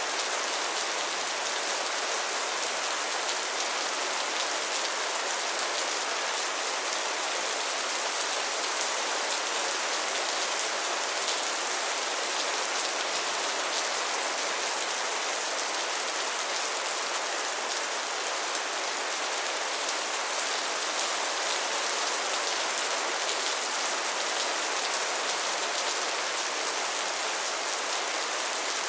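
Steady rain falling, a continuous even hiss of drops pattering on a surface.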